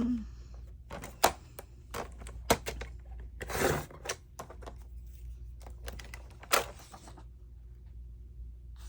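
Papers and craft tools being handled and set down on a tabletop: a series of light taps and clicks, with a short rustle about three and a half seconds in and a sharper click a few seconds later.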